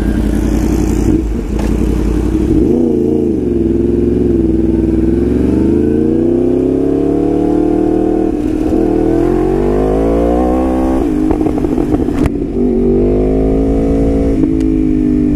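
Yamaha R1's crossplane inline-four engine pulling through the revs while riding, its pitch climbing and falling several times. The longest climb runs for about six seconds midway and drops suddenly, and a shorter climb and drop follow near the end.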